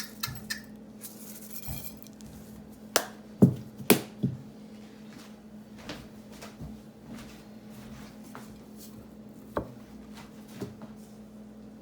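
Scattered clicks and knocks of a sesame seed container and dishes being handled while sesame seeds are sprinkled over a plate of chicken and rice, with a cluster of louder knocks a few seconds in. A low steady hum underneath.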